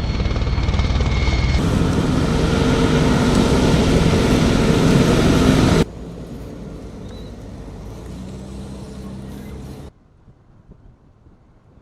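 Combat helicopters flying close, their rotors and engines loud and throbbing. The sound changes abruptly about a second and a half in, drops sharply to a quieter engine sound near six seconds, and falls to a faint background near ten seconds.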